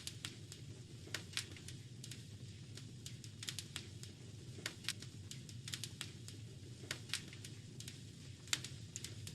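Wood fire crackling in a fireplace: irregular sharp pops and snaps, bunched several together at times, over a steady low rumble.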